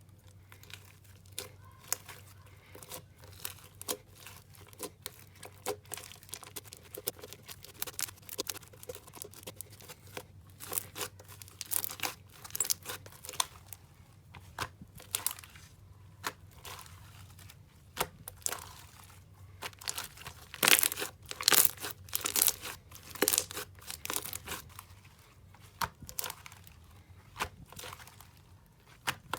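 Slime being pressed and stretched by hand, giving rapid, irregular crackling and popping, densest and loudest about two-thirds of the way through.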